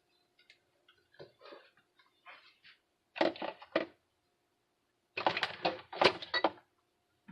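Kitchen handling noises: several rapid clusters of knocks, clicks and rustles as a dish and tortilla are handled and set down on the counter, the loudest two groups in the middle and latter part.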